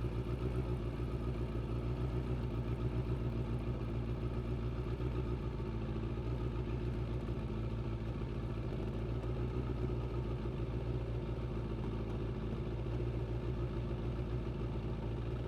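Suzuki GSX600F's inline-four engine running steadily at low, unchanging revs, with no revving up or down.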